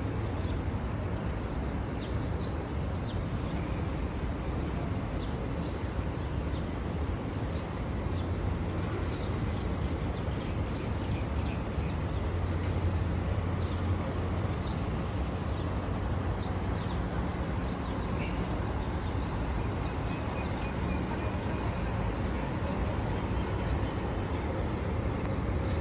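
Many small birds chirping in quick, short calls over a steady low rumble, thinning out near the end.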